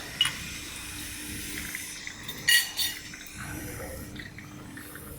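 Automatic coffee machine brewing and dispensing, a steady low hum with a faint hiss of liquid and steam. Two short sharp high-pitched sounds come about halfway through.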